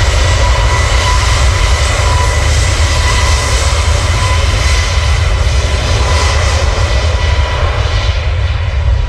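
Jet airliner's engines spooled up to takeoff power, a loud steady rumble with a high whine held at one pitch after rising just before.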